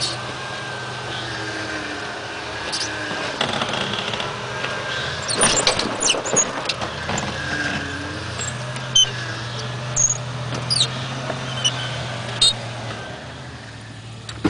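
4x4 vehicle's engine running steadily at low revs, with a burst of knocks and clatter about five to seven seconds in and a few sharp knocks later, as the vehicle works over rough ground.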